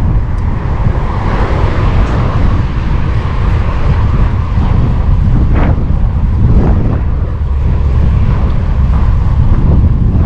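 Wind rushing over the microphone of a moving bicycle, with road traffic passing alongside.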